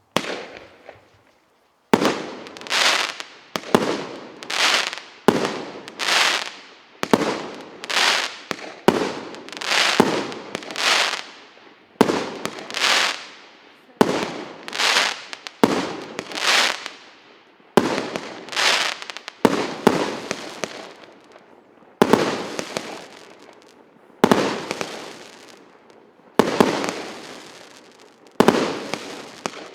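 Consumer firework battery (Russkaya Pirotekhnika PC 8700 cake) firing shot after shot, about one a second at first, then spacing out to one every one and a half to two seconds. Each shot is a sharp launch that swells into a burst and fades.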